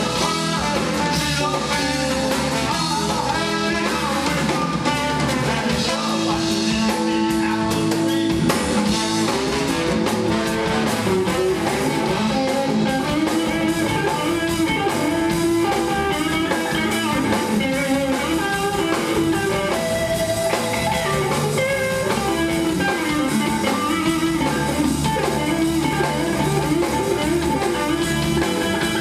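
Instrumental band music: guitar with a drum kit playing a steady beat.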